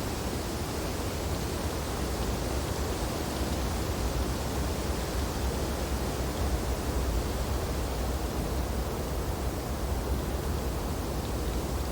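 Wind blowing steadily through tree branches: an even rushing noise, heaviest in the low end, with only slight swells.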